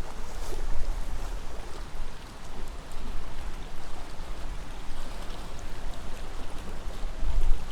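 Wind gusting through trees, a steady rushing noise, with low wind buffeting on the microphone that strengthens near the end.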